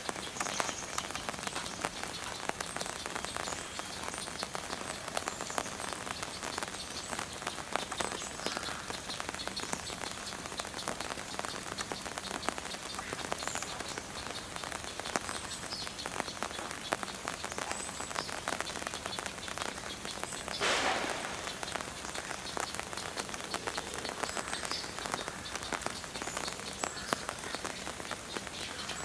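Steady rain falling, a dense patter of many small drops. About two-thirds of the way through there is one brief, louder rush of noise.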